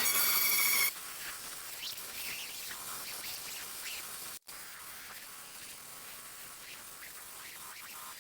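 Belt sander running with a steady whine, which cuts off suddenly about a second in. Faint hiss and light scraping follow.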